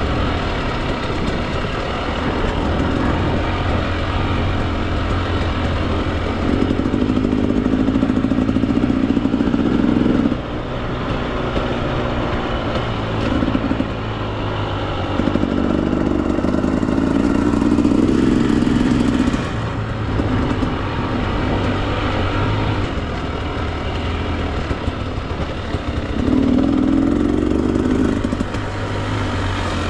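Two-stroke enduro dirt bike engine, a 2024 Husqvarna TE 300, running on a trail, revving up hard three times and easing off between.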